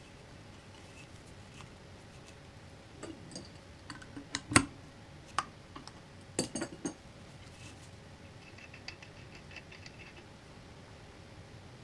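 Scattered light clicks and knocks of metal parts and tools being handled on a workbench, with one sharper knock about four and a half seconds in, a short cluster of knocks a couple of seconds later, and a quick run of faint ticks after that.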